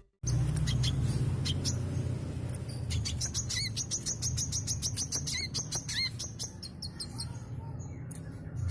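Brown-throated sunbird (kolibri kelapa) singing non-stop in a fast run of high, thin chirps and trills. A steady low hum runs underneath. The song starts abruptly just after the opening.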